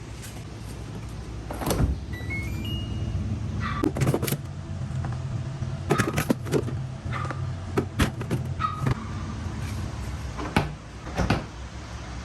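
A steady low machine hum with scattered clicks and knocks, and a short run of electronic beeps stepping up in pitch about two seconds in.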